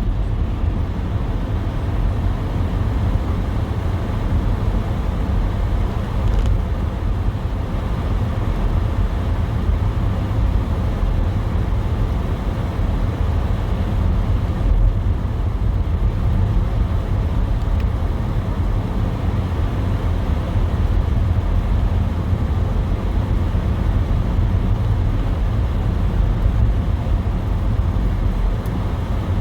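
Steady low rumble of a car driving, engine and tyre noise.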